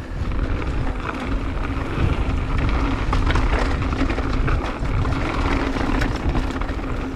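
Mountain bike running fast down a dirt trail: wind buffeting the camera microphone and tyres rumbling over the ground, with a faint steady hum and scattered rattles from bumps.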